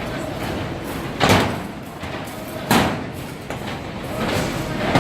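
Loud bangs, two about a second and a half apart and another near the end, each with a short ringing tail, over a steady background noise.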